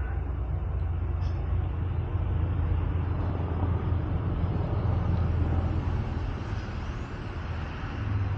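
Steady low rumble of road traffic, swelling through the middle and easing off near the end.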